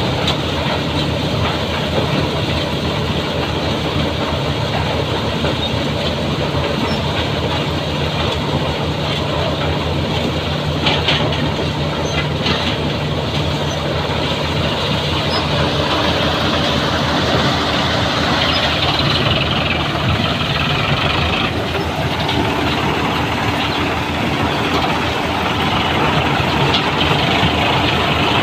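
Eicher tractor's diesel engine running steadily, its pitch stepping higher about halfway through as the engine speeds up.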